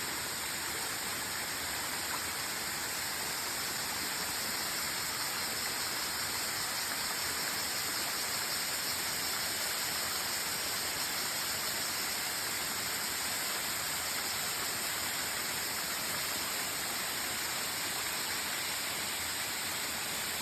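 Waterfall's rushing water, a steady even hiss with no breaks.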